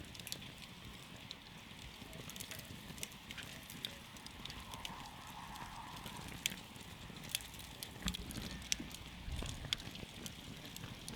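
Wood campfire crackling, with irregular sharp pops and snaps over a low, steady rumble of the flames.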